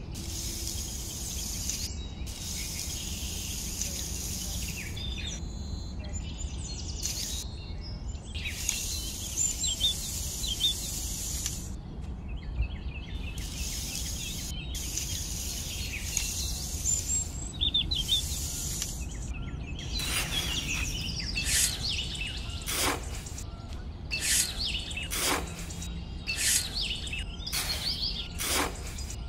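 A small steel trowel scraping through damp sand in several separate passes, then digging in quick, short strokes from about two-thirds of the way in, with birds chirping behind it.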